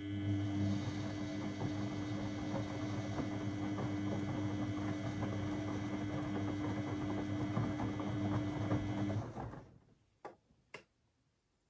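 Beko front-loading washing machine running steadily for about nine seconds, a mechanical hum with crackle, as during a wash phase, then stopping; two sharp clicks follow about a second apart.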